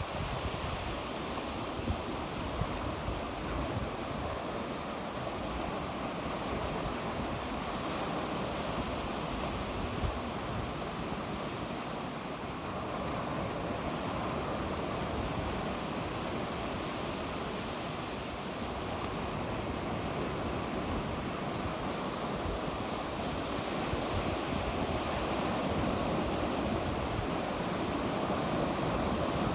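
Sea waves breaking and washing on the shore in a steady, continuous surf that swells and eases gently. Wind buffets the microphone with a low rumble.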